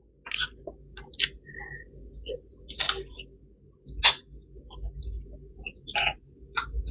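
Close-up mouth sounds of a person eating by hand: chewing, with about half a dozen short, sharp smacks and puffs of breath at irregular intervals.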